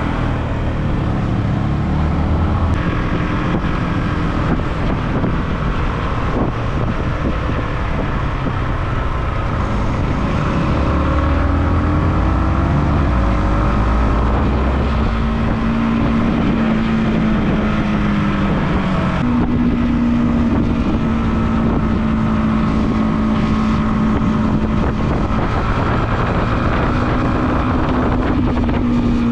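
Motorcycle engine running on the road with wind buffeting the microphone. Its note climbs steadily for several seconds, jumps up suddenly about two-thirds of the way through, then holds fairly level.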